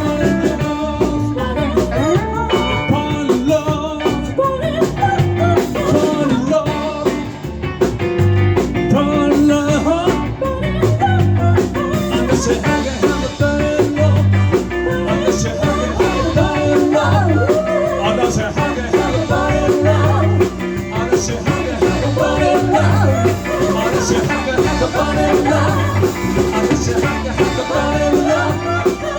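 A live band playing a rock/blues song with a steady beat: drum kit, bass and electric guitar, with pitched lines bending through the middle of the sound.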